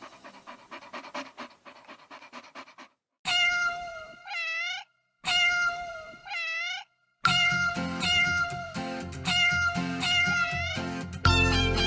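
Children's song intro built on cat meow sounds. Two meows with a rising bend come about 3 and 5 seconds in. A bouncy backing track starts about 7 seconds in with more meows, and the full beat joins near the end.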